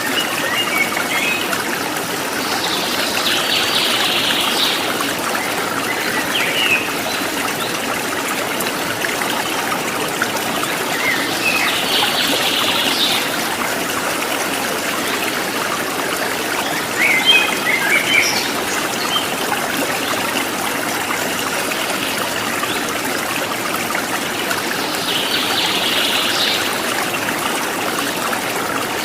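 Running water of a stream trickling steadily, with birds chirping above it several times in short bursts.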